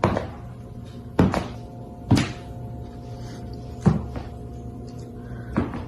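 Five loud thuds at uneven intervals, each a short knock with a brief ring after it, over a steady hum and faint held musical tones.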